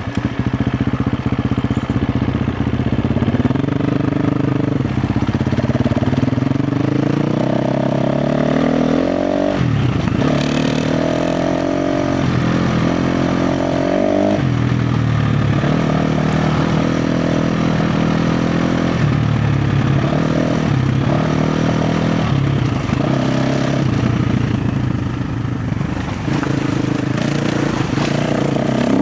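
KTM 350 XC-F dirt bike's single-cylinder four-stroke engine pulling hard on the trail, its pitch climbing and then dropping back several times as the throttle is worked and gears change.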